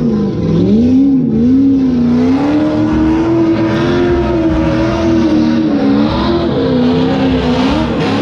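A stunt-show drift car's engine held at fairly low revs, its pitch swinging up and down continuously with no break, over a steady hiss.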